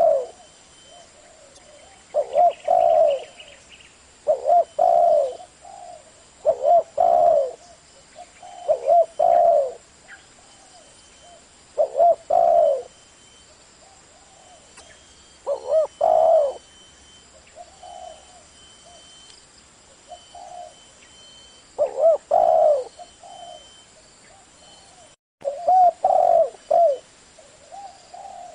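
Spotted dove cooing in the 'thổ' voice: short phrases of low coos repeated every two to four seconds, with a few longer pauses.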